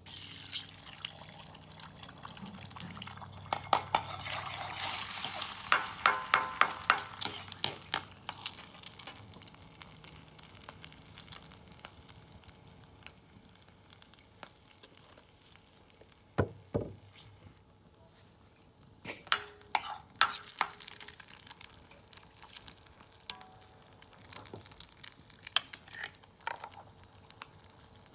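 Food sizzling in a wok while a metal utensil stirs it, clattering and knocking against the pan. The clatter is rapid and dense for the first several seconds, then comes in short scattered bursts over a quieter sizzle.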